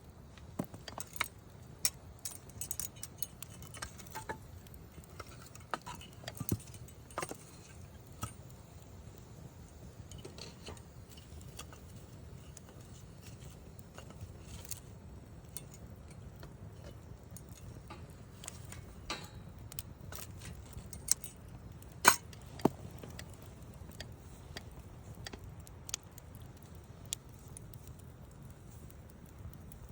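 Wood campfire crackling: irregular sharp pops and snaps over a low steady background, busier early on and in a cluster about two-thirds of the way through, where the loudest pop falls.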